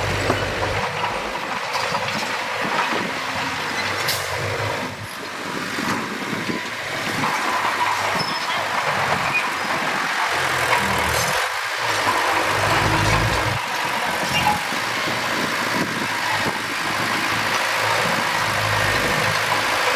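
Heavy diesel machinery, a bulldozer and dump truck, running steadily, with the low engine note rising and falling over the seconds.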